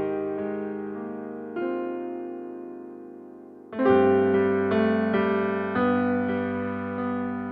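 Background piano music: slow, sustained chords, each struck and left to fade, with a new chord every one to two seconds.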